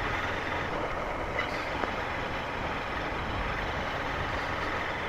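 Steady wind rush and road noise from a Honda Unicorn motorcycle under way, with no distinct engine note standing out.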